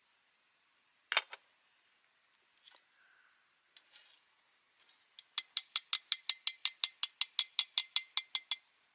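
A single sharp click, a few faint clicks, then a rapid, evenly spaced run of about twenty sharp clicks, roughly six a second, lasting about three seconds.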